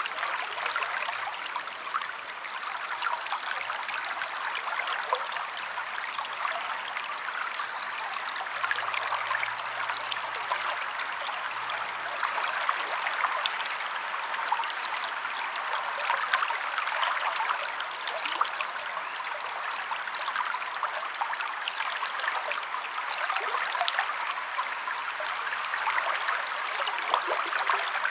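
Stream of water flowing steadily, a dense splashing hiss. In the second half a bird's short, high trill comes faintly every few seconds above it.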